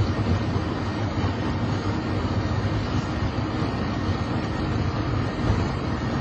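Steady low rumble inside a Boeing 737-800's flight deck: the even noise of the aircraft's engines and air systems, with no change in pitch or level.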